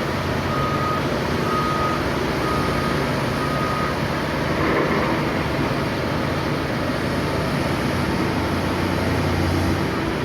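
Heavy mining machinery engine running steadily, with a reversing alarm beeping about once a second that stops about four seconds in.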